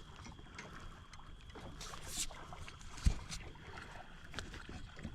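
Small knocks and handling noises on a fishing kayak during a fight with a large northern pike, with one heavier low thump about three seconds in, over faint water and wind.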